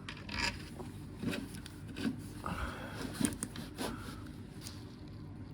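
Light scraping and rubbing with a few small clicks, as a parking brake cable is worked into place on the car's subframe.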